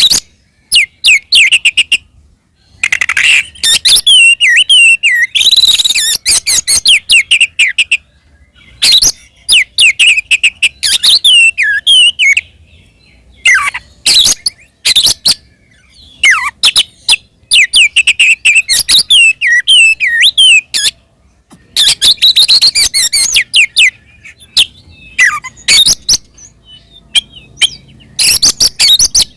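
Oriental magpie-robin singing its loud, aggressive fighting song: bursts of rapid whistled sweeps and sharp clicking notes, broken by short pauses.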